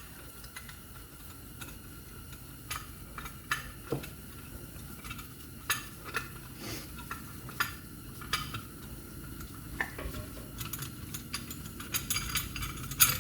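Scattered light metallic clicks and clinks of hand tools and brake parts being handled, a few a second at most, over a steady low hum.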